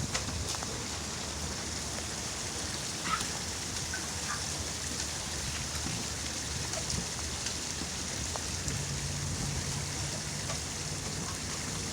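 Rainwater runoff flowing through a flooded backyard: a steady, even hiss of running water with a few faint ticks.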